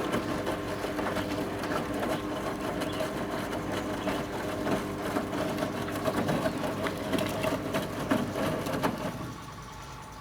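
A 1974 Zoppas Superautomatic 242 washing machine running, a steady motor hum with a rattle of small clicks. About nine seconds in it drops to a quieter, steady hum with a thin whine.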